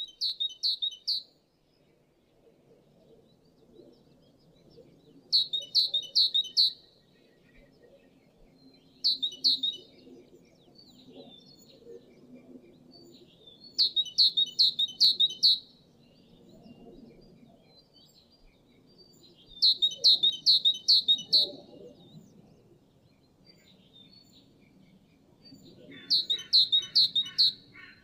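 A tit singing: six short phrases of four or five quick, high repeated notes, a few seconds apart. A faint low background murmur runs underneath.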